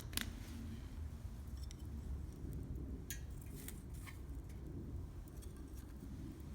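Wood campfire crackling: irregular sharp pops and snaps, the loudest just after the start, over a steady low rumble of the burning fire.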